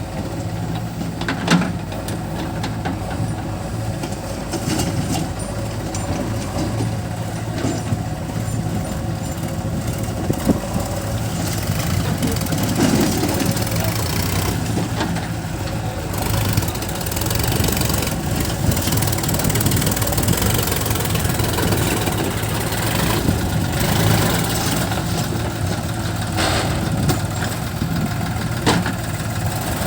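Heavy diesel engine running steadily at low speed, with a few short knocks now and then.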